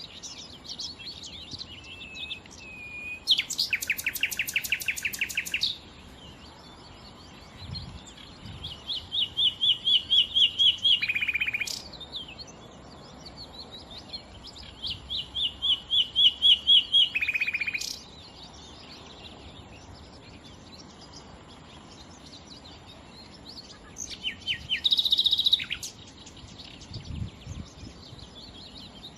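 Nightingale singing in separate phrases of fast repeated notes, with pauses of a few seconds between them. Two of the phrases are a rapid run of repeated notes that drops into a short lower buzz at the end.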